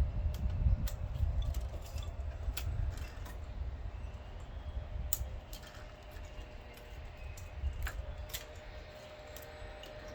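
Zip ties being snipped off a car's wiring with cutters: scattered sharp snips and small clicks, a few louder ones spread through. A low rumble sits under the first second or so.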